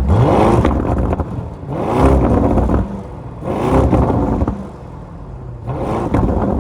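Lamborghini Urus's 4.0-litre twin-turbo V8 revved four times, each rev rising in pitch and dropping back to a lower running note between them.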